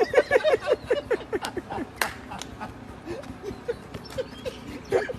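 A dog giving a fast run of short, pitched whining yelps, about six a second, which thin out to a few fainter yelps after a second and a half or so.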